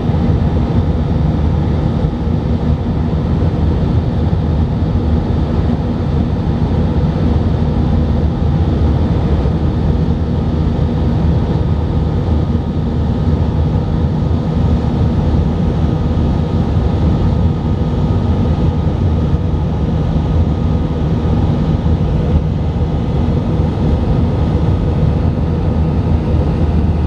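Airbus A319 jet engines and airflow heard inside the cabin: a loud, steady low rumble with a few faint steady tones above it.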